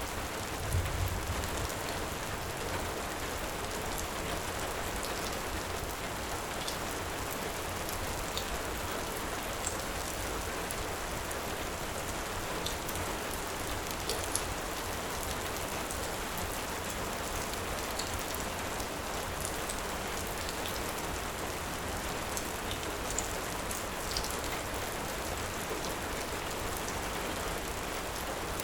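Heavy rain falling steadily, an even hiss, with scattered short, sharp high crackles and ticks, and a brief low rumble about a second in.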